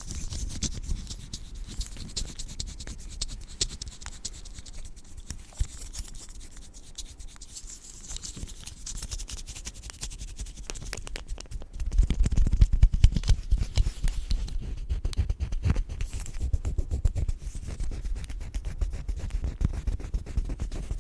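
Close-miked rubbing and scratching on the microphone, a dense, steady crackle of small scrapes that gets louder and heavier about twelve seconds in.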